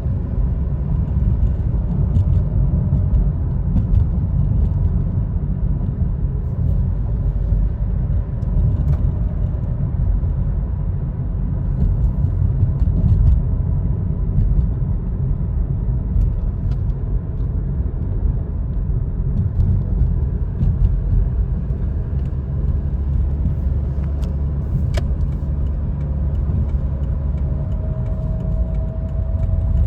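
A car running, with a steady low rumble of engine and road noise; a faint whine rises slightly near the end.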